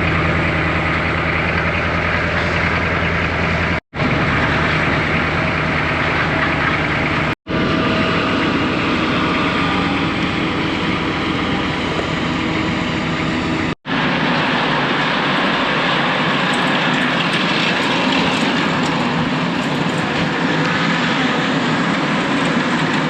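Heavy farm machinery engines running steadily, heard in four short clips cut together with abrupt breaks between them.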